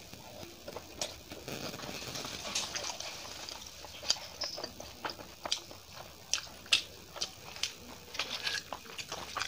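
Close-miked chewing of a mouthful of poori, with many short, sharp mouth clicks and smacks spread through.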